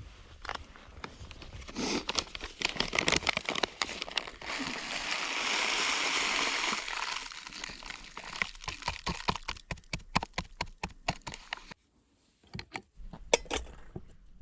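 Liquid being poured for a few seconds, a steady splashing hiss, with many sharp clicks and knocks before and after it.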